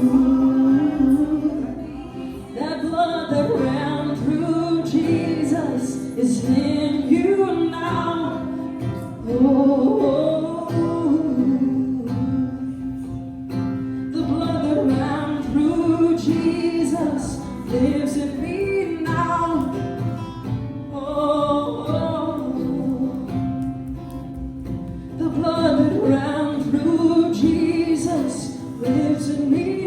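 Worship music: a voice singing over guitar accompaniment.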